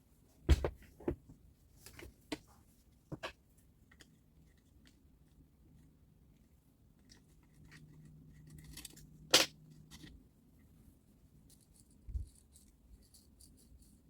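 Tools and saw parts being handled on a workbench: scattered sharp clicks and knocks, the loudest about nine seconds in, with a dull thump near twelve seconds and light ticking near the end.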